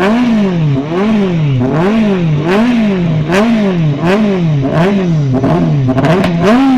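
Rally car engine revved up and down over and over, about once a second, with sharp pops and crackles from the exhaust in between.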